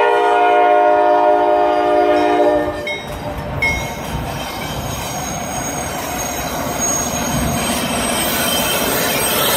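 Norfolk Southern diesel freight locomotive's air horn held in one long blast that cuts off about three seconds in. The rumble of the locomotive and its wheels on the rails follows, growing louder as the train comes by.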